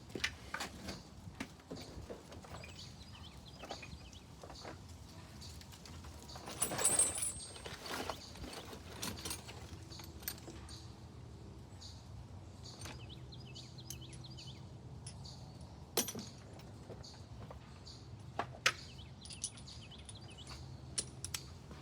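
Hand tools clicking and knocking against an engine as its spark plugs are taken out, with a short scraping rustle about seven seconds in and sharp single clicks later on.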